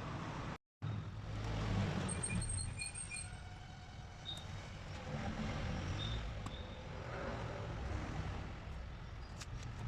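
Engine running with a steady low rumble; all sound cuts out for a moment just after the start.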